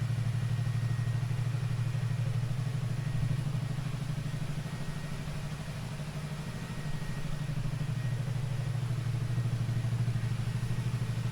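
Racing motorcycle engine idling steadily with a fast, even exhaust pulse, left running for a minute with an engine-treatment additive in its oil and fuel. It dips slightly in level around the middle, then picks back up.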